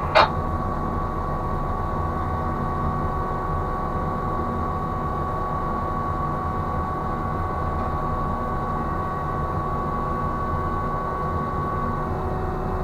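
Ship's crane machinery running steadily as the jib moves slowly: a low rumble with a steady whine that fades near the end.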